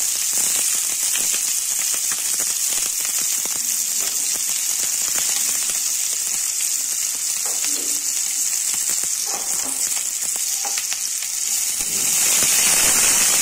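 Chopped onion frying in a little hot oil in a kadhai: a steady sizzle with small crackles. It gets a little louder near the end as a spatula stirs it.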